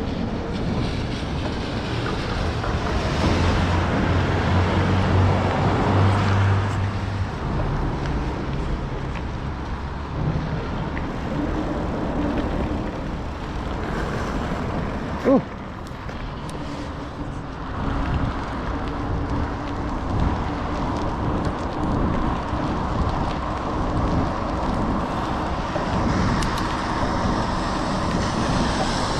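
Motor vehicle under way: a steady engine hum with road and wind noise, its pitch shifting now and then, and one sharp click about fifteen seconds in.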